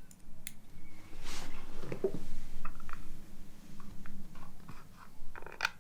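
Handling noise of parts being fitted: scattered clicks and knocks with a scraping, rustling stretch in the middle, as a plastic electric box is positioned on a pressure washer motor.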